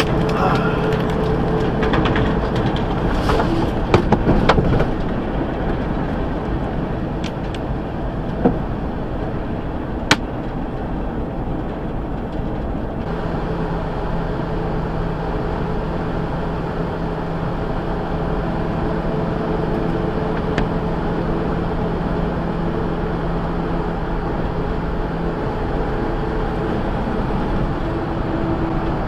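Steady drone of a truck on the move, engine and road noise together, with a few sharp clicks and knocks in the first ten seconds.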